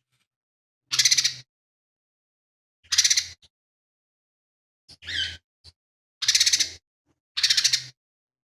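Lesser green leafbird (cucak ijo mini) giving five harsh, rattling calls about half a second each, spaced a second or two apart.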